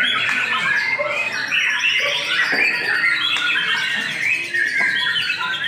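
White-rumped shama (murai) singing: a continuous, rapid stream of varied, sliding whistles and chirps that overlap one another.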